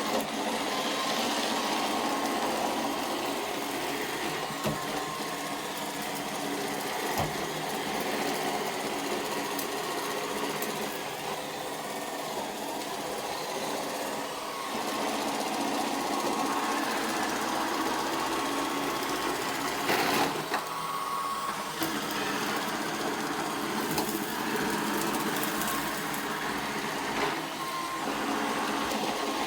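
iRobot Roomba 692 robot vacuum running, a steady whirring hum of its motors and brushes, with a few brief knocks.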